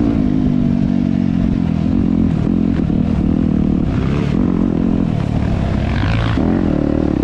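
Dirt bike engine running under way, its revs rising and falling as it rides.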